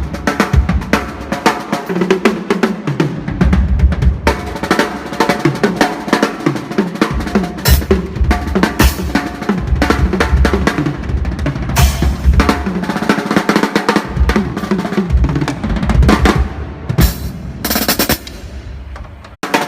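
A drum kit being played: rapid snare hits and rolls over bass drum beats, with occasional cymbal crashes. The playing thins out briefly just before the end.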